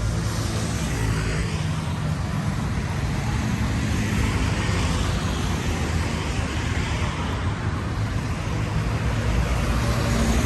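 Steady road traffic noise of passing cars, its hiss swelling and easing as vehicles go by over a continuous low rumble.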